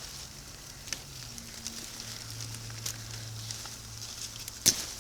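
A steady hiss of background noise with scattered light clicks, a low hum through the middle, and one sharp click near the end.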